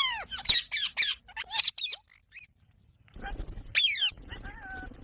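Ringneck parakeet calling: a quick run of sharp, falling squawks and chirps, then a pause of about a second. After the pause comes another falling call and a short held whistle near the end.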